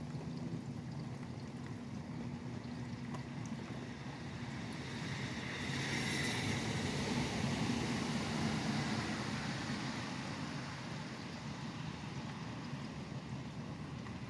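Steady rain with a vehicle passing on the wet highway: the hiss of tyres on the wet road swells about five seconds in and fades away after a few seconds.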